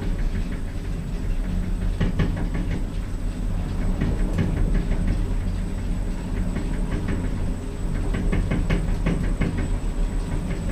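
Modernised lift car running in its shaft: a steady low rumble with runs of rattling clicks, most around 2 s in and again near the end.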